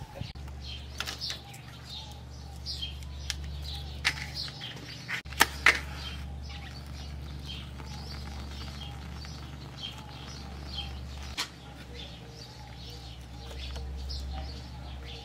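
Birds chirping over and over in short high calls, over a steady low rumble. A few sharp clicks or knocks break in, the loudest about five seconds in.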